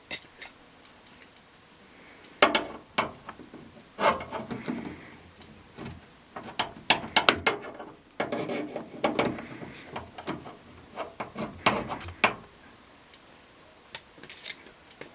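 Hand tools working on the parts of a front-load washing machine being taken apart: irregular clicks, knocks and scrapes in short clusters, with quieter stretches between.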